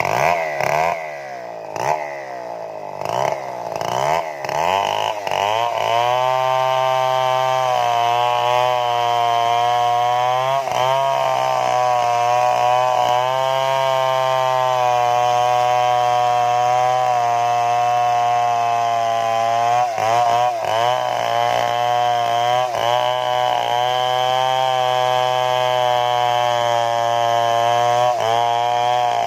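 Stihl chainsaw revving up and down several times, then running steadily at high speed from about six seconds in, dipping briefly a few times, as it cuts into a big tree trunk.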